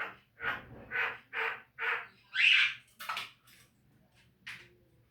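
Javan myna (jalak kebo) calling: a run of short, harsh notes about two a second, with a longer, louder note about two and a half seconds in, then a few scattered notes.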